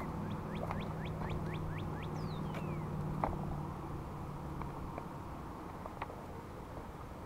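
Birds calling: a couple of falling whistles and a quick run of short chirps, over a steady low hum like a distant engine, with a few faint knocks.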